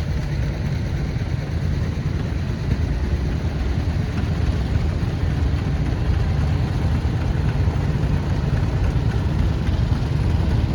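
Vintage farm tractor engine running steadily at low speed, a deep, even rumble.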